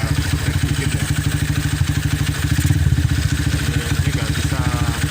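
Honda Tiger Revo's 200cc single-cylinder engine idling through a CKC capsule aftermarket exhaust, with a steady, even exhaust pulse.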